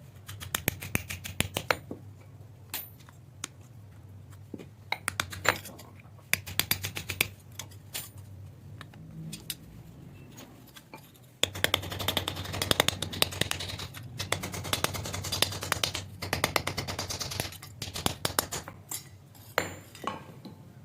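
Hand work on a knife: many sharp metallic clicks and taps, and a denser stretch of scraping with clicks from about halfway through, over a steady low hum.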